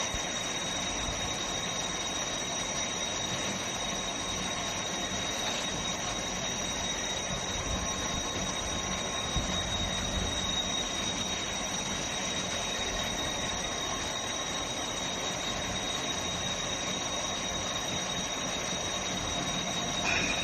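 Steady running noise of a flow-meter calibration rig, with two steady high-pitched whines over an even hiss and a faint low hum.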